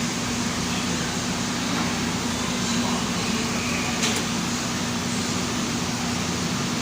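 Steady fan-like hum and hiss with a constant low tone, and one faint click about four seconds in.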